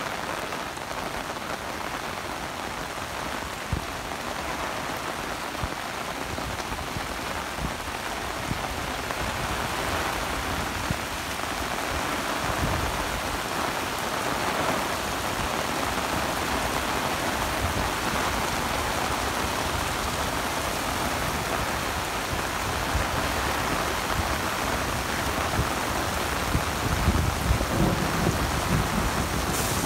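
Heavy rain pouring steadily, pattering on the ground and on an umbrella held overhead. A low rumble rises near the end.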